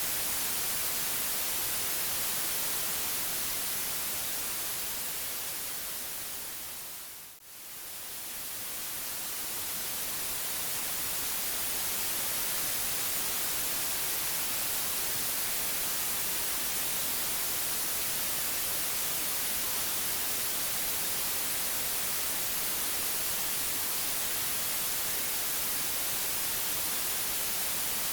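Steady white noise: an even hiss, brightest in the highs. About seven seconds in, it fades down to almost nothing and then swells back up to full level over the next few seconds.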